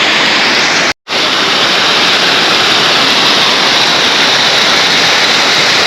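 Waterfall, a steady rushing noise of falling water. The sound cuts out completely for a moment about a second in.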